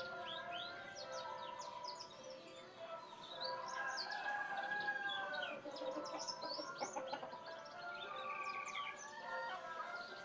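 Many small birds chirping and calling in quick, overlapping sweeps, with a rooster crowing about four seconds in.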